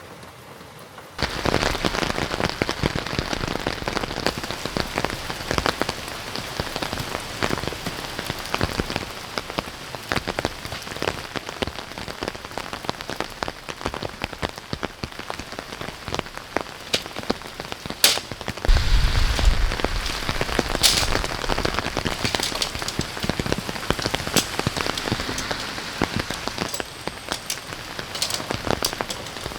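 Heavy rain falling, a dense patter of drops that starts suddenly about a second in. About two-thirds of the way through, a short low rumble of wind on the microphone.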